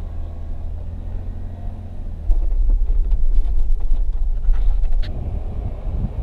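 Motor vehicle driving over rough dirt ground: a low rumble that gets louder a couple of seconds in, with scattered knocks and rattles.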